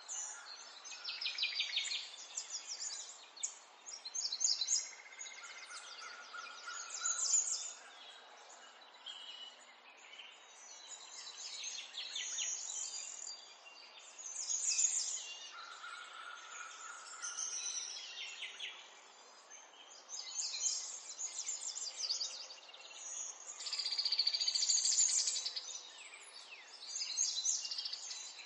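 Songbirds chirping and trilling, several overlapping, with rapid trills and a couple of longer whistled notes.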